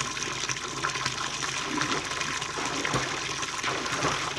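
Running water flowing and splashing steadily, an even rushing hiss.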